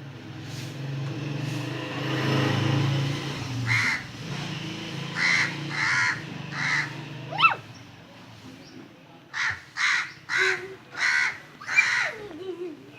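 Short, harsh animal calls in runs, the last run six calls at about two a second, over a steady low hum in the first few seconds.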